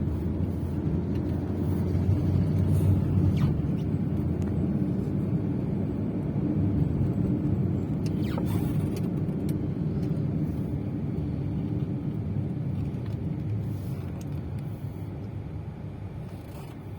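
Steady low rumble of motor vehicle engines and road noise in slow traffic, easing off a little near the end.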